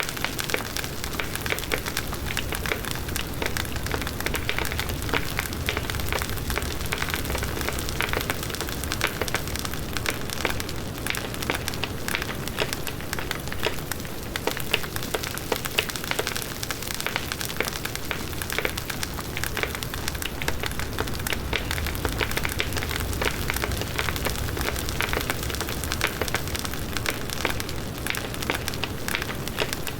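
Large wood bonfire burning: a steady crackle of dense, irregular pops from the burning wood over the low rumble of the flames.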